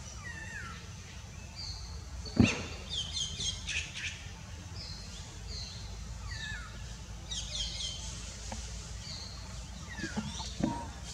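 Wild birds calling: repeated short, falling whistled notes and quick rattling trills, with one sharp click about two and a half seconds in.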